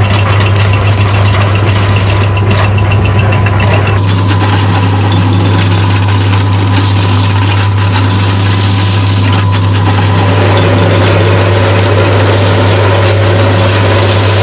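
Industrial machinery running loudly and continuously: a strong steady low hum under dense mechanical noise. The noise grows brighter about four seconds in, and a new mid-pitched drone joins around ten seconds in.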